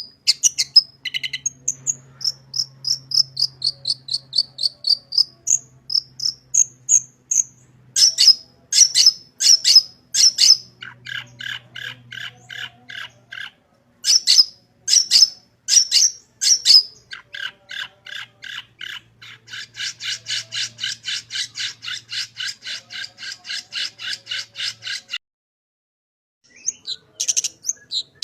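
Long-tailed shrike (cendet) singing a varied song full of mimicked phrases. It gives strings of sharp high whistled notes and chirps, then a fast, even rattling phrase for several seconds. After a short pause about 25 seconds in, it calls again near the end.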